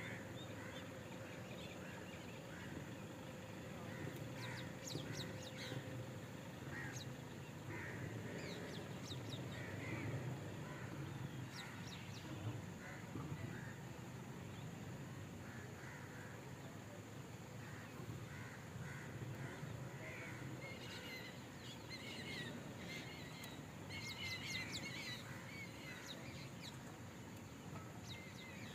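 Wild birds calling, many short calls overlapping and coming in busy spells, over a faint low rumble.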